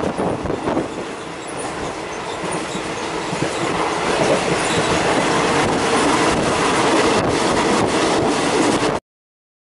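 Passenger train carriage running along the track, heard from inside through open windows: a steady rumble of wheels on rail that grows louder, with a quick run of clicks from the rail joints in the second half. It cuts off suddenly near the end.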